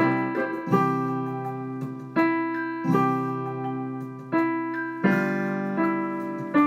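Piano played slowly, one struck chord or note at a time, each ringing and fading before the next, about one new chord a second.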